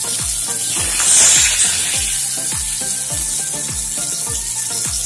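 Hot oil sizzling in a non-stick frying pan as shallow-fried tilapia are lifted out with a spatula, with a louder hiss about a second in. Background music with a steady beat plays over it.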